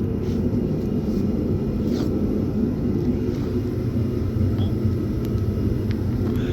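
Steady low rumble of a motor vehicle, with a couple of faint clicks.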